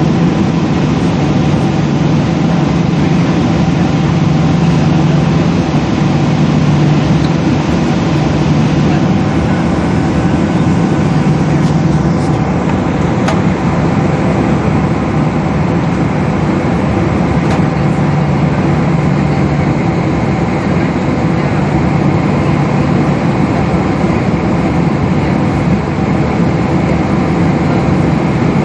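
Steady, loud cabin noise inside a Boeing 777 airliner: the jet engines and airflow make an even rumble with a constant low hum and a few fixed steady tones.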